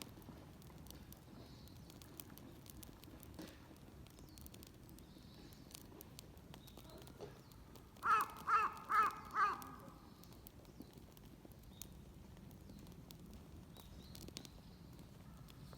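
A crow cawing four times in quick succession about halfway through, over faint outdoor background with scattered light clicks.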